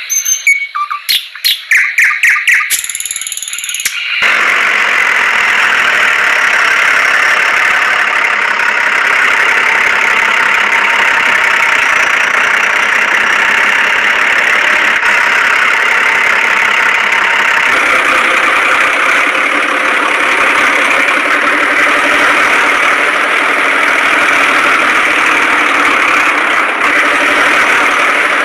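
A short run of chiming tones, then a tractor engine running steadily with a thin sound and no deep rumble. Its tone shifts slightly about two thirds of the way through.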